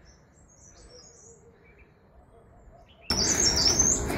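Small birds chirping in quick high notes, faint at first, then suddenly much louder about three seconds in, together with a steady rush of outdoor noise.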